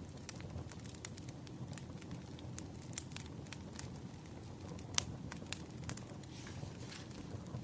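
Firewood burning, crackling with irregular sharp pops, the strongest about five seconds in, over a steady low rumble.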